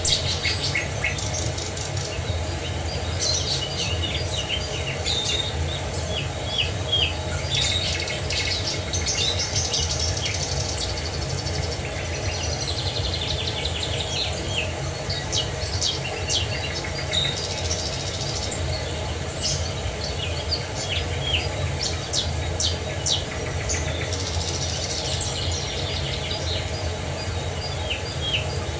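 Several birds chirping and singing, short calls and trills following one another without pause, over a steady low rumble.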